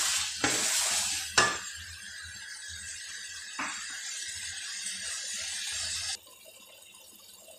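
Green peas, tomato and spices frying in oil in a kadhai, sizzling, with a few sharp knocks of the spatula against the pan in the first seconds; the sizzle cuts off suddenly about six seconds in.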